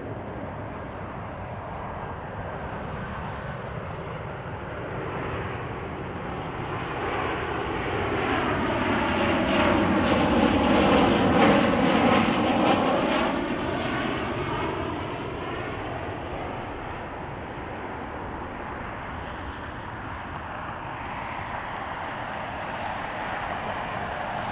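Boeing 737-800 jetliner with CFM56 engines arriving and passing close by. Its engine noise swells to its loudest about halfway through, then fades, dropping in pitch as the plane goes past.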